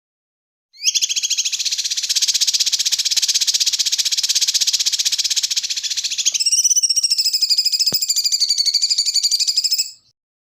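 A songbird's rapid, continuous rolling trill, high-pitched and about nine seconds long, starting and stopping abruptly. About six seconds in it changes to a wavering, ringing trill, with a brief click a little later.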